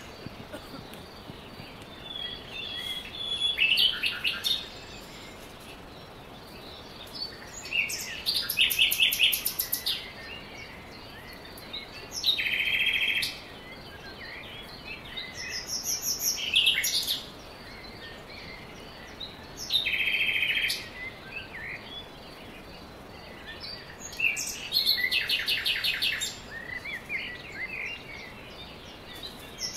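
Birds singing: bursts of rapid high trills and chirps come every few seconds over a steady background hiss.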